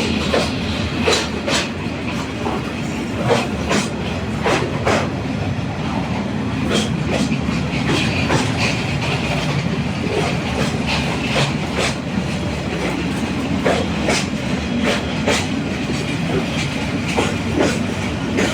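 A train passing on the track: a steady rumble with irregular clacks of the wheels over the rail joints.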